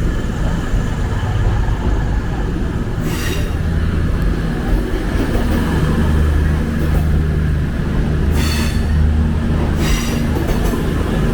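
CrossCountry Class 221 Super Voyager diesel-electric train in the station, its underfloor diesel engines running with a steady low drone. Three short, high metallic squeals from the wheels come about three seconds in, past eight seconds and near the end.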